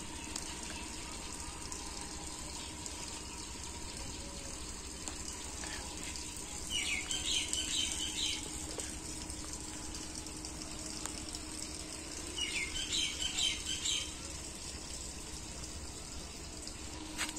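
A songbird singing two short phrases of quick, high notes, each about a second and a half long, the second coming about six seconds after the first, over a steady background hiss.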